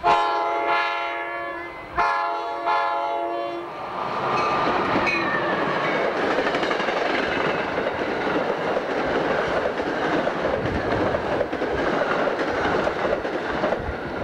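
New Jersey Transit ALP-44 electric locomotive sounding its horn in two blasts, the first about two seconds long and the second slightly shorter. Then the train passes close by, with steady wheel-on-rail noise and clickety-clack from the coaches.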